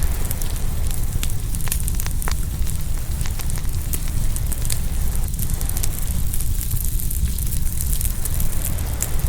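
Open wood fire crackling, with many small sharp pops scattered throughout, over a steady low rumble.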